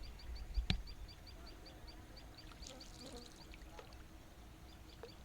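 Water pouring and trickling around a boat, with a sharp knock a little under a second in and a steady high ticking call repeating about four times a second.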